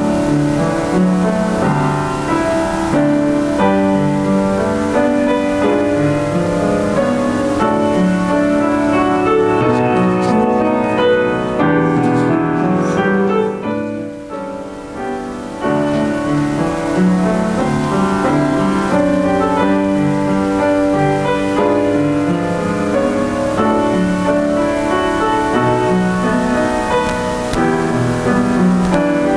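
Slow piano music of sustained, overlapping chords, dropping in level briefly about halfway through and then carrying on.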